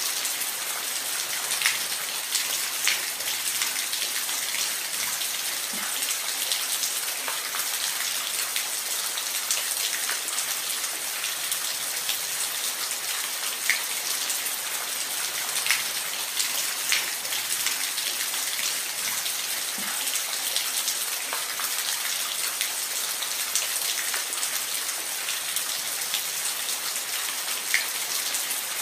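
Steady rain falling, a dense hiss with scattered louder drops ticking on a hard surface.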